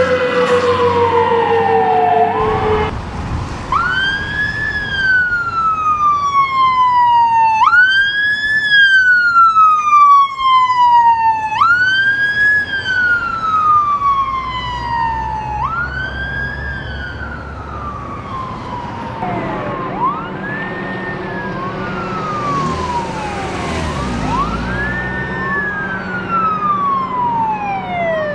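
Emergency vehicle sirens on a code 3 response. A siren falls in pitch and breaks off about two seconds in; then a wail siren cycles about every four seconds, rising quickly and falling slowly. In the second half a second siren overlaps it, and a swell of road noise passes near the end.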